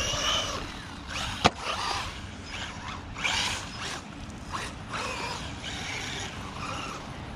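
Brushless motor of a 1/12-scale 4x4 RC car whining in repeated surges as the throttle is blipped, with drivetrain and tyre noise. A sharp knock comes about one and a half seconds in.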